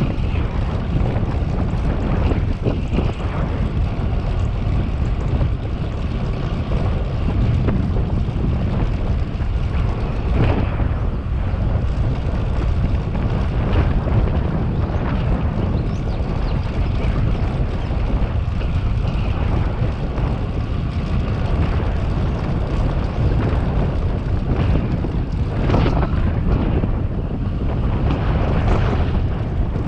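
Steady wind rumble on a camera microphone moving at cycling speed, with a few brief louder gusts.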